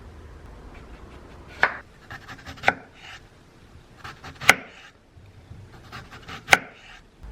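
Knife chopping on a wooden cutting board: four sharp, loud strikes at uneven intervals, with lighter taps and knife-scraping between them.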